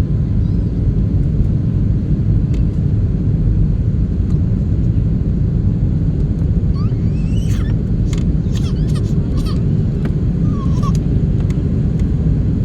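Airliner cabin noise in flight: a steady low rumble of jet engines and airflow. A few faint, brief higher sounds come through in the second half.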